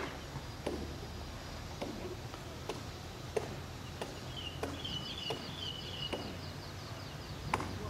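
A bird chirping and warbling from about halfway through, over a steady low background rumble and soft clicks about once a second.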